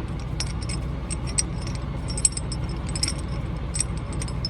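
Ratchet chain binders being cranked all the way out, a quick, irregular run of light metallic clicks and jingling, over a steady low hum of an idling truck engine.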